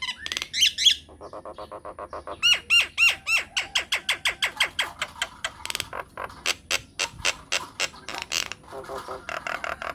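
Myna bird song: a fast chattering run of sharp clicks and arching whistled notes, speeding into a rapid even series in the middle and ending in a warbling passage.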